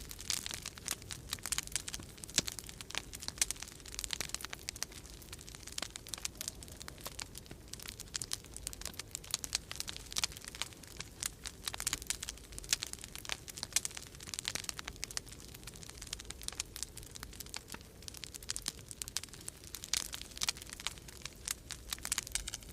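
Wood fire crackling in a fireplace: a dense, irregular stream of sharp pops and snaps, over a steady low rumble of storm wind.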